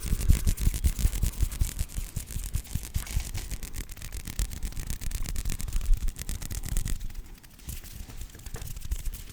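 ASMR hand sounds: hands rubbing and moving fast right against the microphone, a dense run of quick rubbing strokes with low thumps. It eases off about seven seconds in.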